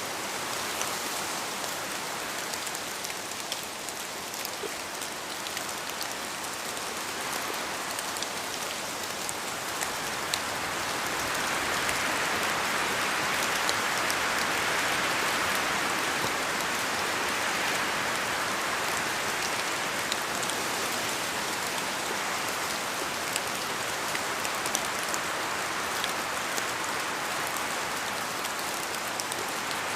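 Steady rain falling, with a dense patter of individual drops hitting a surface; it swells slightly a third of the way in.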